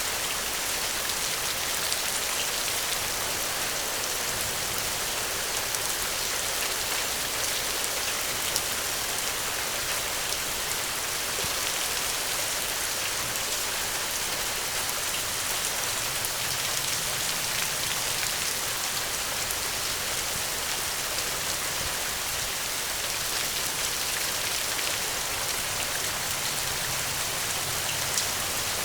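Steady rain, a continuous even hiss, with a few sharp ticks now and then.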